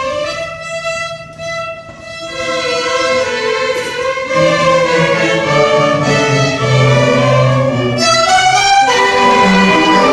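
A youth string orchestra playing: violins carry sustained melody lines, with cellos adding low held notes. It starts softly and swells to a fuller sound from about two seconds in.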